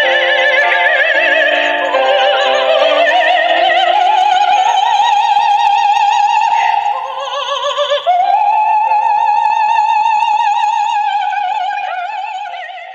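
Soprano singing a classical-style song with wide vibrato over instrumental accompaniment. She ends on a long held high note that fades out near the end.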